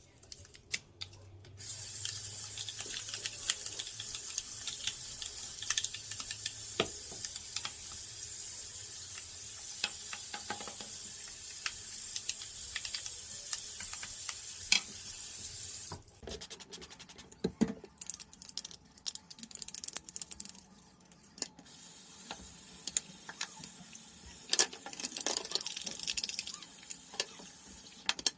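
Water running steadily, as from a tap or hose, broken off for several seconds in the middle by clicks and knocks of handling and scrubbing, then running again.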